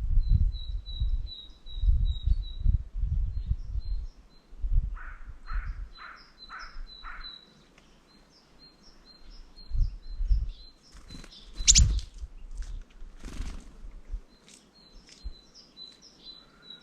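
Small songbirds chirping: quick runs of thin high notes, with a series of five lower calls about five to seven seconds in. A low rumble comes and goes in the first half, and there is a sharp click a little before twelve seconds.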